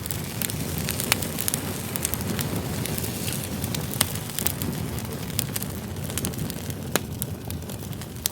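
Campfire of firewood logs burning, with a steady low rush and frequent sharp crackles and pops; the sharpest pops come about one, four and seven seconds in.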